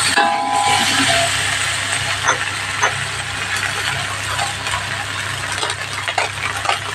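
Sauced cauliflower sizzling in a stainless steel wok while a slotted metal turner stirs and scrapes it, with scattered light clicks of metal on the pan. A steady low hum runs underneath.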